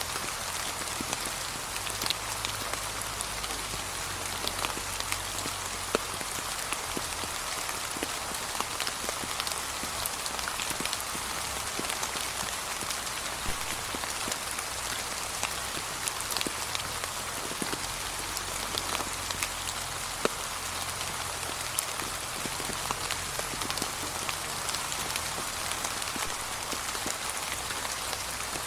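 Steady, gentle rain, with many individual drops ticking on the surface.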